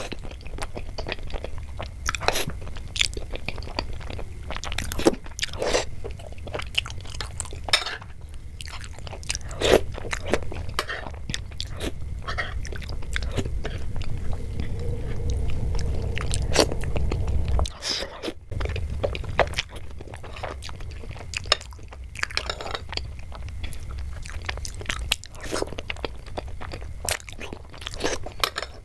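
Close-miked eating: wet chewing and smacking of spoonfuls of rasabali, soft cheese patties soaked in thickened sweet milk, with many short mouth clicks throughout.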